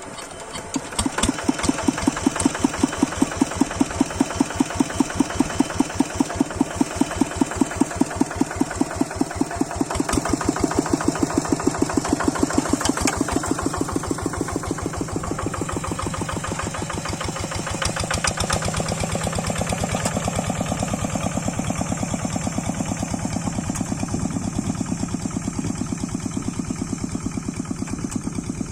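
Old Kubota single-cylinder diesel engine on a Quick hand tractor catching about a second in, then running with strong, even firing beats. Around two-thirds of the way through its speed changes and it settles into a steadier run.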